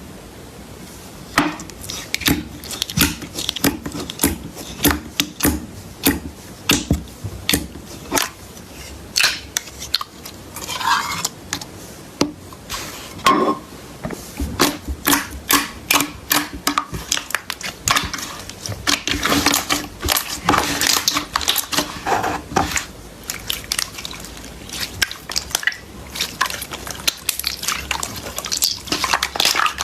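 Clear slime being squished: a rapid, irregular run of sticky clicks and pops.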